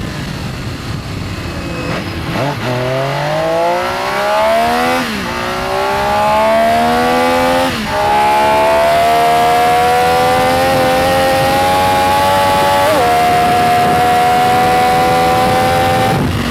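Benelli Tornado Tre 900's inline three-cylinder engine accelerating hard through the gears. The pitch climbs, drops sharply at upshifts about five and eight seconds in, then rises more slowly to a high, nearly steady tone held at speed until near the end.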